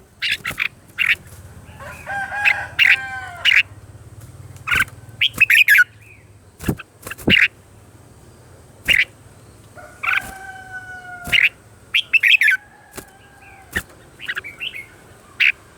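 Red-whiskered bulbul song: short, loud bursts of quick whistled and chirping notes with gaps between them. Twice, at about 2 seconds and again at about 10 seconds, a longer, harsher held call is heard.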